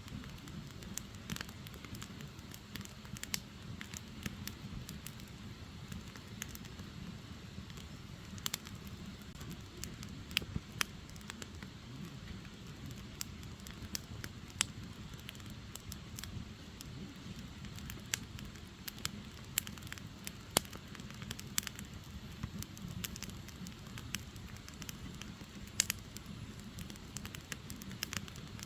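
Wood fire burning: firewood logs crackling with many irregular sharp pops over a steady low rush of flame.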